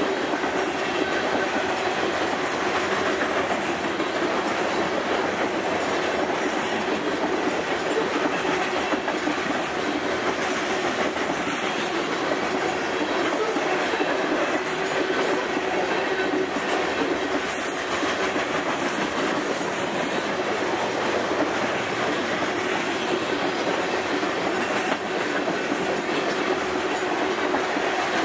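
Loaded covered hopper cars of a heavy grain train rolling past at speed: a steady rumble of steel wheels on rail, with scattered light clicks and a steady tone running underneath.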